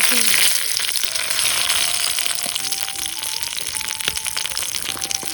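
Hamburg steak patties frying in a hot pan over a campfire: a loud sizzle that jumps up suddenly at the start, then carries on as steady crackling frying.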